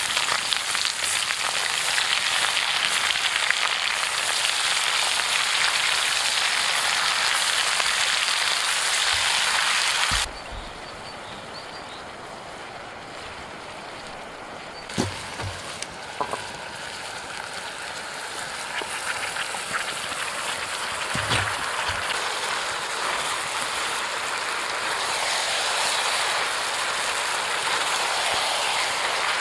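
Food frying in a pot with a steady sizzle that cuts off suddenly about ten seconds in. A quieter stretch with a couple of knocks follows, then the sizzling hiss slowly builds up again.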